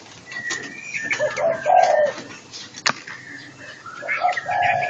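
Dove cooing in repeated phrases while small songbirds call higher up. One sharp click sounds a little before the middle.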